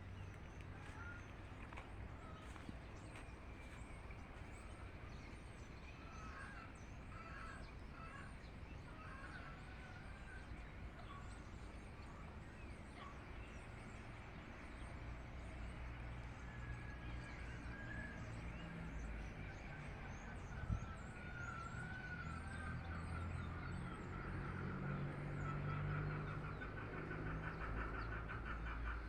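Small birds chirping and poultry calling, over a low rumble that grows louder after the halfway point. One sharp knock about two-thirds through, and a fast run of repeated calls near the end.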